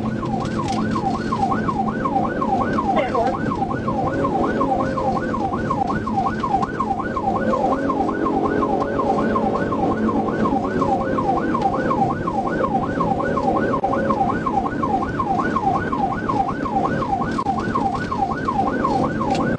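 Police car siren on a fast yelp, about three rising-and-falling sweeps a second, with vehicle road and engine rumble underneath during a high-speed pursuit.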